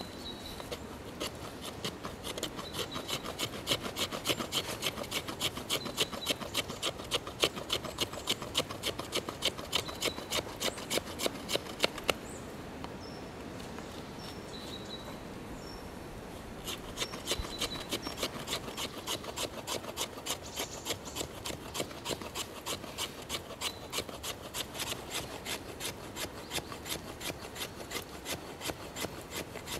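A knife blade scraping shavings off a wooden log in quick, even strokes, about three a second, with a pause of a few seconds about halfway through.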